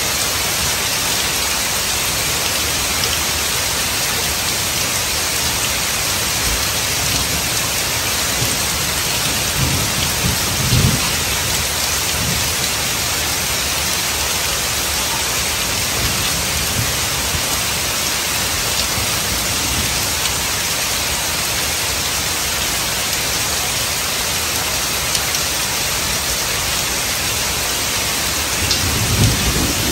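Heavy rain falling steadily on pavement and puddles, a dense even hiss. Low rumbles of thunder swell about ten seconds in and again near the end.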